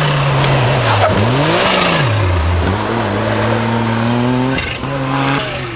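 Suzuki Cappuccino's small turbocharged three-cylinder engine driven hard through a gymkhana run. About a second in the revs drop, pick up and drop again, then climb steadily, with a brief break in the revs near the end.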